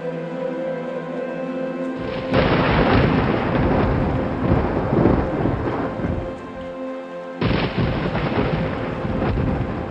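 Thunder rumbling over rain and a soft, steady musical drone. A loud rumble breaks in suddenly about two seconds in and dies away, and another starts just as suddenly near the end.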